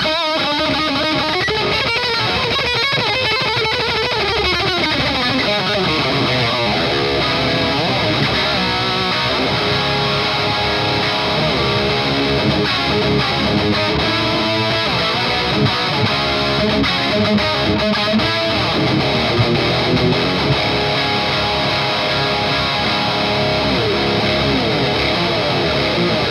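Electric guitar played through a Noise Pollution Skull Driver V2 overdrive pedal into the crunch channel of an EVH Iconic tube amp, giving a driven, overdriven tone as chords and riffs are played.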